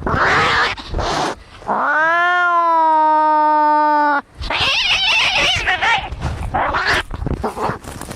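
Cats fighting: harsh hissing and spitting, then one long caterwaul lasting over two seconds whose pitch rises and then holds steady, followed by more harsh hissing.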